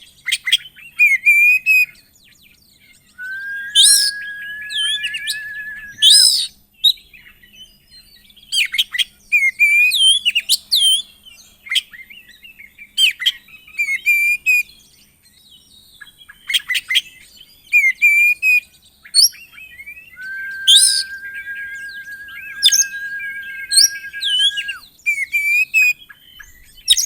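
Oriental magpie-robin (kacer) singing a loud, varied song of sharp, high whistled sweeps and chattering phrases, with rich mimicked fill-in notes. Twice it holds a long, steady, even trill of about three seconds, about three seconds in and again around twenty seconds in.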